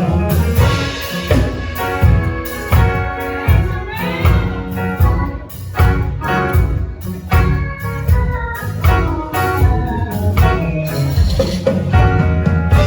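Band playing an instrumental introduction with a steady beat and sustained chords, without vocals.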